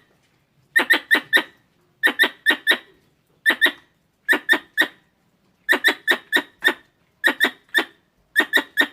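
Squirrel calls: sharp, high chirps in quick runs of three or four, a run about every second, with short silences between.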